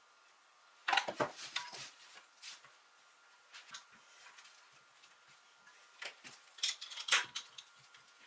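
Clattering clicks and knocks of hard objects being handled, in two bunches: about a second in and again around six to seven seconds in, with a few light taps between.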